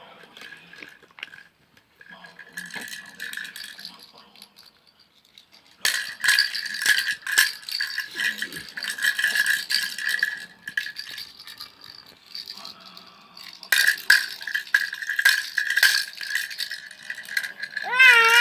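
A rattle being shaken in bursts, quieter at first and then in two long, louder spells about six and fourteen seconds in. A short voice-like rise-and-fall sounds right at the end.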